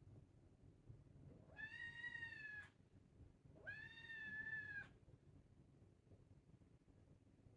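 A cat meowing twice, two drawn-out meows of about a second each, roughly a second apart.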